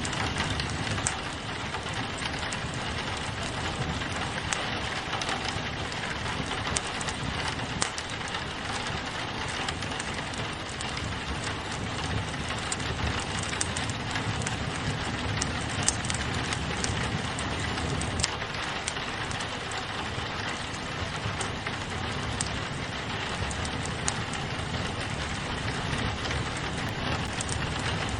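Steady rain pattering on a window pane, mixed with a crackling wood fire in a fireplace. The rain is a constant hiss, with scattered sharp pops and crackles from the burning wood.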